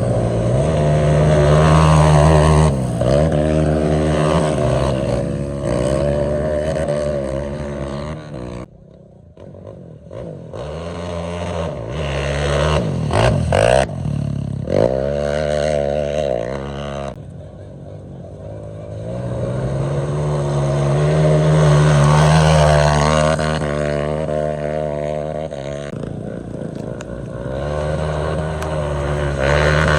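Dirt bike engines revved hard in neutral, the pitch rising and falling again and again. The sound drops off briefly about a third of the way in, then comes back with quick sharp revs and a long loud stretch later on.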